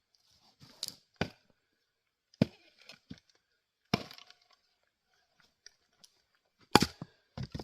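Single-bit axe chopping firewood: five or so separate sharp strikes into wood a second or more apart, with wood cracking and splitting. The loudest blow comes near the end.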